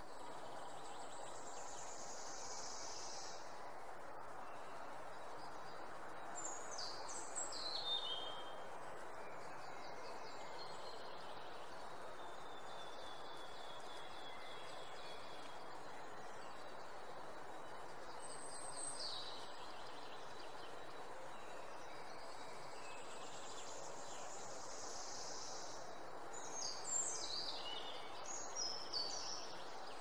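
Songbirds calling over a steady rushing background ambience, with runs of quick falling notes about six seconds in and again near the end, and a long even whistle in between.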